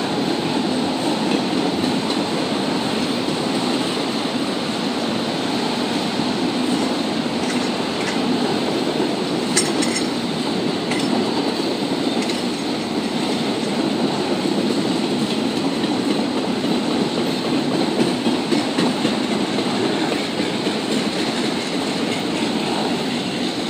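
Autorack freight cars rolling steadily past on the rails, a continuous rumble of wheels on track. A few sharp clicks come about ten seconds in.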